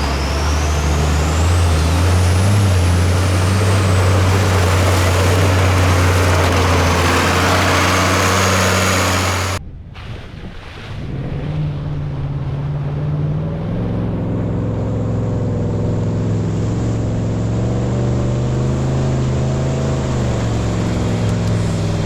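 Heavy off-road race truck engines labouring under load. One engine runs loud and steady, with a high whistle that rises and then falls in the first few seconds. The sound cuts off abruptly, and a second, quieter engine comes in, its pitch wavering up and down.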